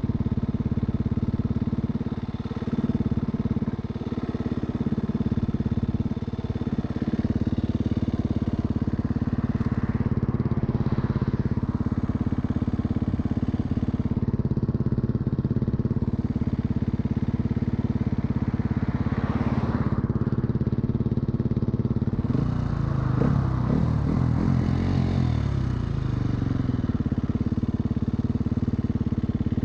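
2016 KTM 250 EXC-F's single-cylinder four-stroke engine running steadily, with the revs briefly rising and falling about three-quarters of the way through.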